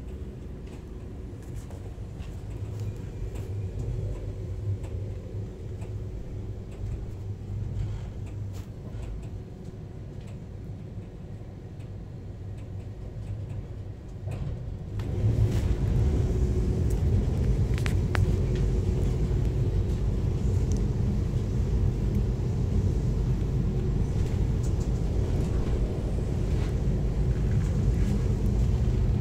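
Steady low rumble of VIA Rail's The Canadian passenger train under way, heard from inside the car, with a few faint clicks. The rumble jumps suddenly louder about halfway through and stays loud.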